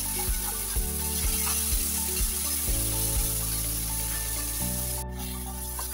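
Sliced bitter melon sizzling as it stir-fries in a nonstick frying pan. A wooden spatula taps and scrapes the pan about twice a second through the first three seconds.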